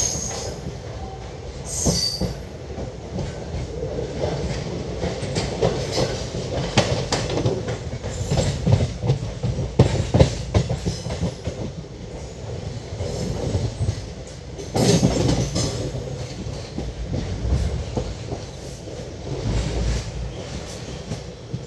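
Express train running, heard from aboard a coach: a steady low rumble with its wheels clattering over rail joints and points, heaviest between about six and eleven seconds in.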